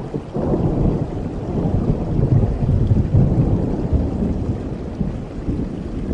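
A long rumble of thunder rolling over steady rain. It builds over the first two seconds, is loudest around the middle, then eases off.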